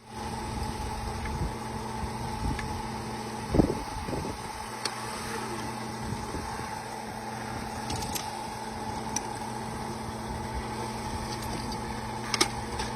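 Drilling rig machinery running with a steady drone, broken by a few short metallic clanks, the loudest about three and a half seconds in.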